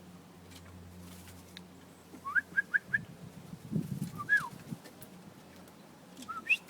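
Bird calls of short whistled notes: a quick run of four rising chirps, a single falling note, and a rising whistle near the end. There is a brief low thud in the middle.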